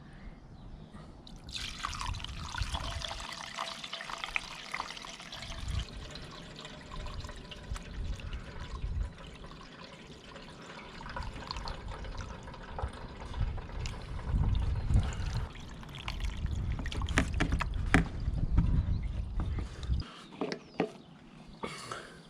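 Engine coolant being poured through a t-shirt used as a filter, a steady trickling pour that starts a second or two in and stops near the end.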